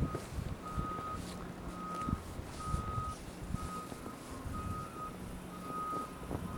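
A vehicle's reversing alarm beeping about once a second, with a faint rumble underneath.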